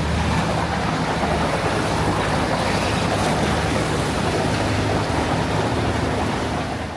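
Steady rushing noise of wind and water around a moving boat, with a low steady hum underneath.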